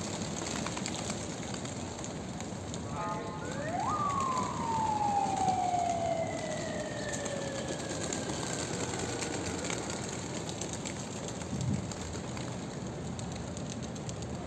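A siren wails, rising sharply about three and a half seconds in and then slowly sinking in pitch over about six seconds. Beneath it runs a steady rushing noise, the wingbeats of racing pigeons being released, with a short thump near the end.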